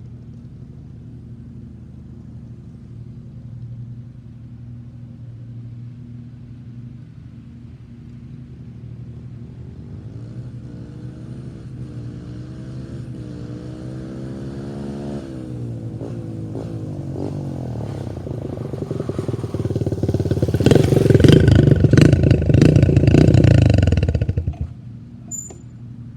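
125cc dirt bike engine running at a distance, then revving, its note climbing and dipping as it comes closer. It is loudest for a few seconds near the end as it passes close, then drops away sharply.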